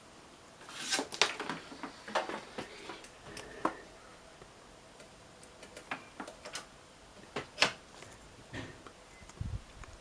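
Irregular light clicks and knocks of a Corsair Raptor M45 gaming mouse and its USB plug being handled and plugged into a computer, with a dull low thump near the end.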